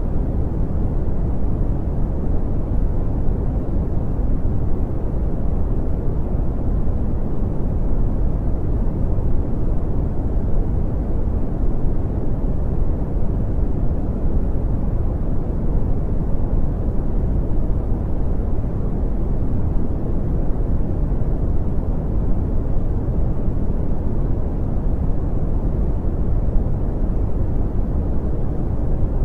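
Brown noise: a steady, unchanging deep rumbling hiss, heaviest in the bass and fading out in the treble.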